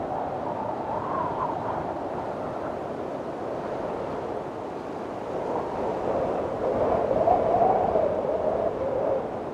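Windstorm blowing in gusts: a steady rushing with a thin whistle that wavers up and down in pitch, swelling to its strongest gust about seven seconds in.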